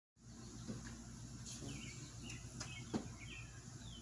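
Birds chirping, with short notes and a few falling whistles, over a steady low hum; a sharp click about three seconds in.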